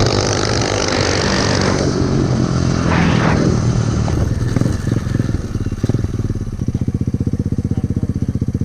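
SSR 125 pit bike's single-cylinder four-stroke engine being revved hard and then dropping back. From a bit past the middle it settles into an even, rapid low putting at idle.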